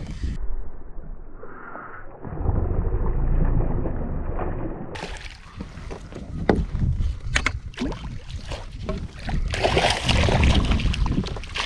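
Wind buffeting the microphone over water sloshing around a fishing kayak, sounding muffled for the first few seconds, with a few sharp clicks in the middle and a louder rush of wind near the end.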